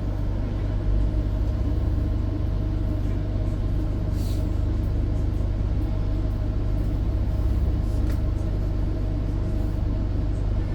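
Electric tram running along its track, a steady low rumble heard from on board, with a couple of brief faint clicks about four and eight seconds in.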